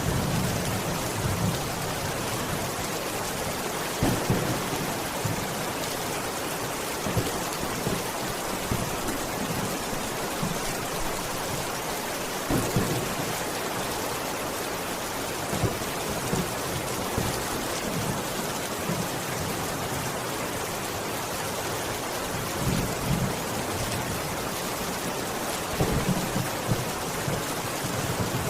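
Steady rain falling, with short low rumbles of thunder coming and going every few seconds.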